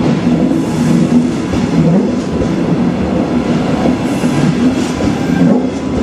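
Red double-deck regional coaches rolling past at a platform: steady loud wheel and rail noise with a low humming tone that wavers in pitch.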